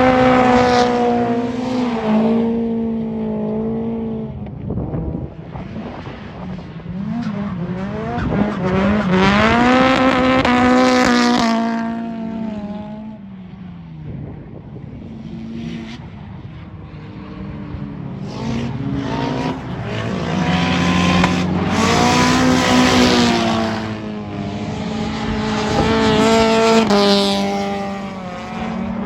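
Drift cars sliding through the course, engines held at high revs with brief lifts and re-revs, and tyres squealing. The sound swells up and fades several times, with a quieter stretch in the middle.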